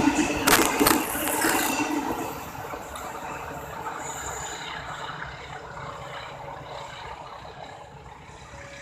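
Train hauled by a CC 201 diesel-electric locomotive going by. Its wheels clack over rail joints for the first couple of seconds, then the rumble fades steadily as the train moves away.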